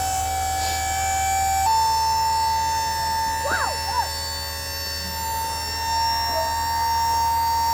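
Electric-over-hydraulic dump trailer pump motor running with a steady whine as it raises the bed, stepping up in pitch once about two seconds in.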